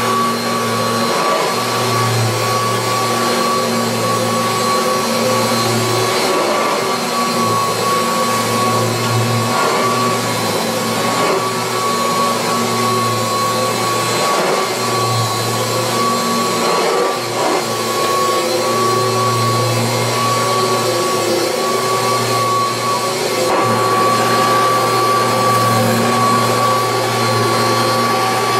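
1986 Kirby Heritage II upright vacuum cleaner running, with a steady high whine and a low hum that comes and goes every few seconds.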